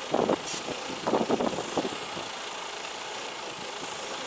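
Heavy truck's diesel engine running steadily, with a few short, louder noises in the first couple of seconds.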